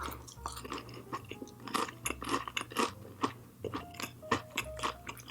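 Close-miked chewing of a mouthful of food: a string of irregular wet mouth clicks and smacks.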